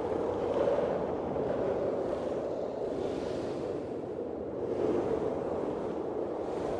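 Blizzard wind blowing steadily in gusts, swelling slightly about half a second in and again near five seconds.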